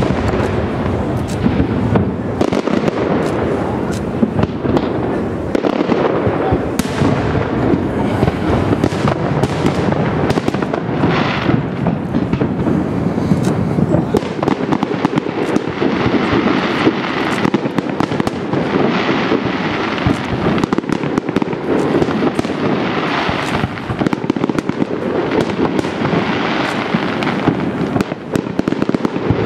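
Aerial firework shells of a fireworks display launching and bursting in quick succession, a dense, unbroken run of bangs and crackles.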